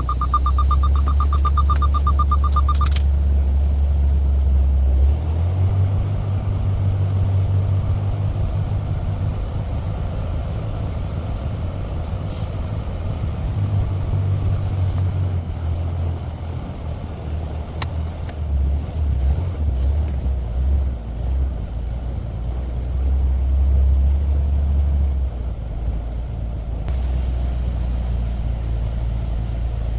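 Semi truck's diesel engine running, heard from inside the cab, its pitch stepping up about five seconds in and shifting a few more times after. A rapid beeping warning tone sounds over it for the first three seconds.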